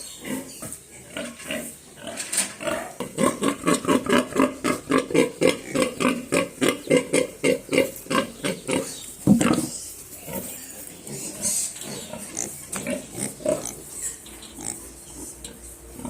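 Pigs grunting, with a fast run of short, evenly repeated grunts at about four a second through the middle and a single loud sharp sound about nine seconds in, then quieter, scattered grunts.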